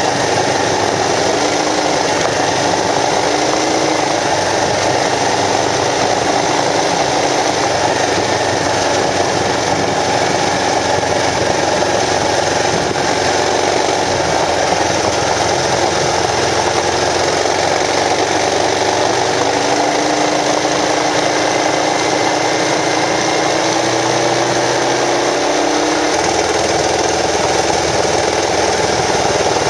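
Kawasaki KLR650 dual-sport motorcycle's single-cylinder engine running under way on a dirt road, its pitch drifting slightly with the throttle, under a steady rushing noise of wind and tyres on gravel.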